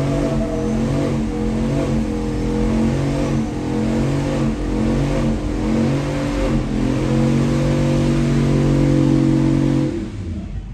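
Pickup truck engines running and revving, the engine note holding and shifting pitch in steps, then dropping off sharply near the end.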